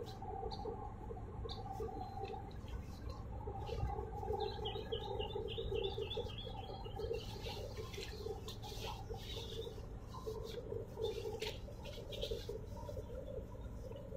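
Small birds chirping, with a quick run of short high chirps partway through and scattered single chirps, over a low steady rumble of harbour ambience.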